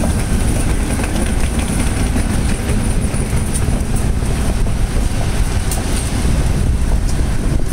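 Metra commuter train running through the station, a loud steady rumble with its wheels clicking over the rail joints.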